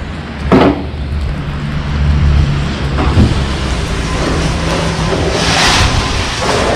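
Street traffic: a motor vehicle's steady engine hum, with a short sharp sound about half a second in and a louder hissing rush about five and a half seconds in.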